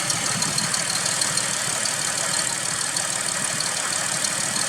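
2005 Toyota Highlander's V6 engine running rough with misfires on cylinders 2 and 6.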